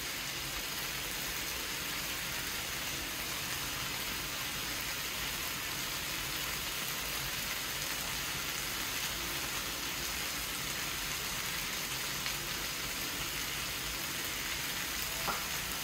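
Minced chicken keema sizzling steadily in a pan on a gas flame, with a faint tap or two near the end.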